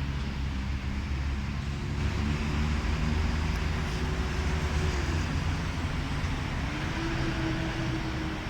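Sydney Trains Tangara electric train running at the station: a steady low hum with held motor tones, one dropping away about five seconds in and another coming in near seven seconds.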